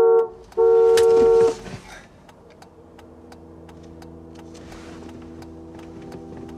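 A car horn sounds in two long blasts in the first second and a half. After that comes a quieter stretch of steady regular ticking over a low hum.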